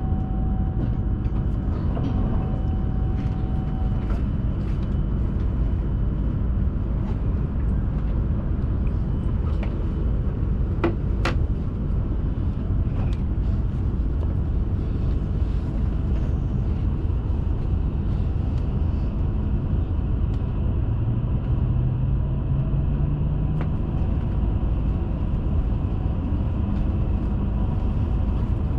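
Hayabusa Shinkansen train running at speed, heard from inside the passenger cabin as a steady rumble. A faint rising hum comes in about two-thirds of the way through, and a single sharp click comes near the middle.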